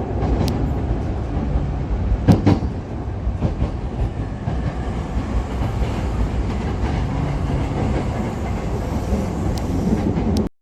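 Hankyu electric train running on the rails: a steady low rumble with a few sharp clicks, the loudest about two seconds in. The sound cuts off abruptly near the end.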